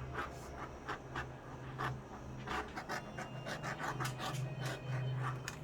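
A dog panting in quick, short, uneven breaths, several a second.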